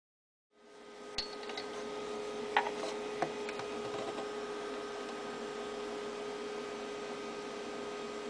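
A steady electrical hum over a hiss, starting abruptly about half a second in, with a few light clicks in the first few seconds.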